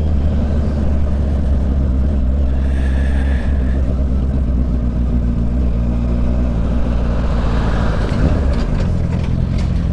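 Honda CB650 inline-four motorcycle engine running steadily at low revs while riding. Near the end the note dips briefly, then picks up again.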